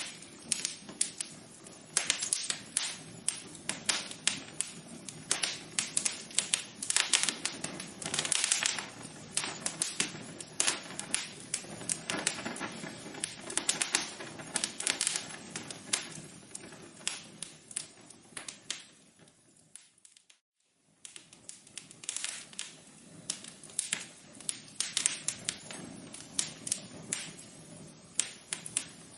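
Wood fire crackling, with many quick irregular pops and snaps over a soft hiss. It fades out briefly about two-thirds of the way through, then picks up again.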